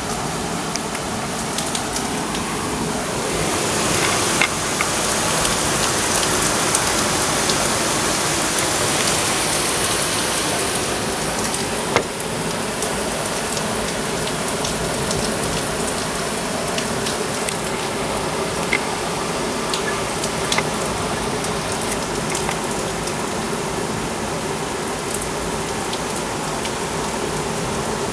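Heavy thunderstorm downpour: a dense, steady rush of rain that swells a few seconds in and eases back after about ten seconds, with scattered sharp ticks of drops striking close by.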